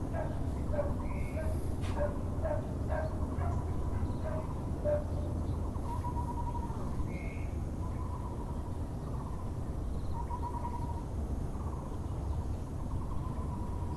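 Muller's barbet (Taiwan barbet) giving its low, repeated pulsed calls every couple of seconds, with a quick run of short notes from another bird in the first few seconds, over a steady low rumble of background noise.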